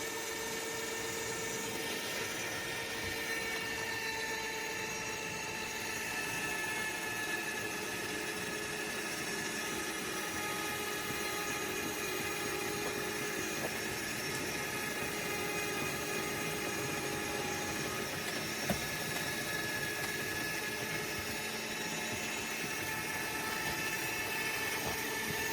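Electric winch on a side-by-side running under load, a steady whine as it pulls the stuck machine over, with one sharp click about two-thirds of the way through.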